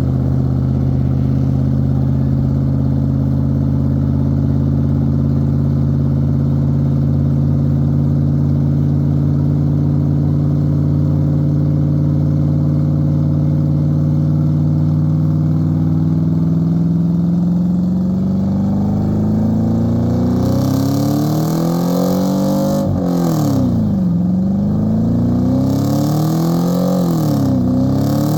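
A truck engine runs with a steady drone. About two-thirds of the way in it is revved hard, its pitch climbing, dropping suddenly and climbing again three or four times.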